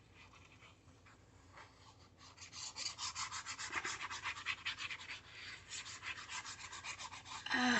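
Glue stick being rubbed over the back of a piece of paper in quick back-and-forth strokes, about five a second. The strokes start a couple of seconds in and stop just before the end.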